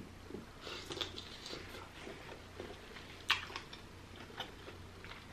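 A person chewing a mouthful of soft, deshelled king crab meat close to the microphone: quiet wet mouth sounds with small clicks, and one sharper click about three seconds in.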